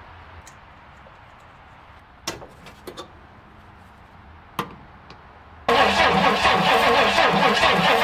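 A few light clicks, then about two thirds of the way in the starter of a 1962 Ford Galaxie's V8 cranks the engine over in an even, pulsing rhythm. It cranks for about three seconds without catching.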